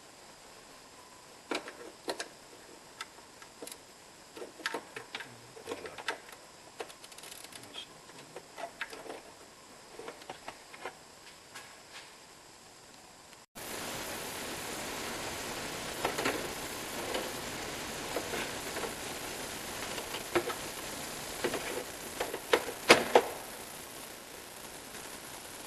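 Hand tools clicking and knocking against metal engine parts in an irregular scatter of sharp clicks, with no steady rhythm. About 13 seconds in, a steady hiss comes in under them, and a cluster of louder knocks comes near the end.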